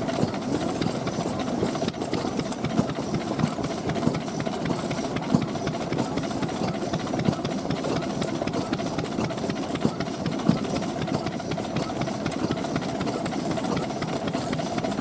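Vintage stationary engines running steadily, with a fast, even stroke.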